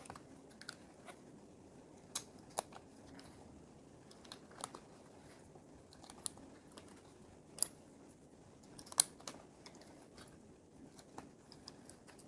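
Plastic Lego pieces clicking and snapping together as they are handled and fitted, in scattered sharp clicks at irregular intervals; the sharpest comes about nine seconds in.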